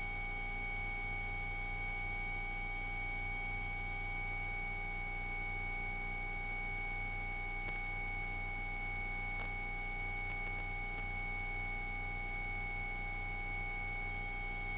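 Steady electrical hum with a faint high whine that never changes: background noise on an aircraft intercom or headset audio feed, with no engine rise and fall audible.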